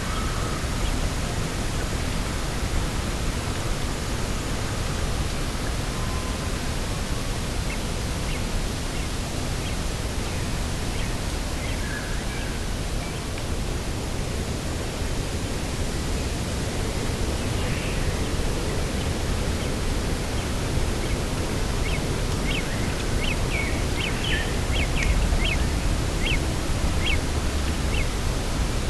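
Steady wind noise, heaviest in the low rumble, with a quick run of about a dozen short bird chirps in the last third.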